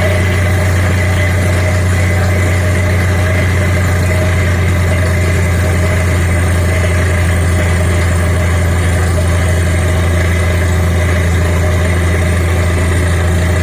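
Borewell drilling rig's engine running steadily, a deep, constant drone with no change in speed.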